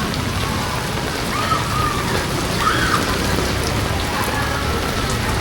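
Heavy rain falling steadily, a dense, even hiss of water hitting surfaces.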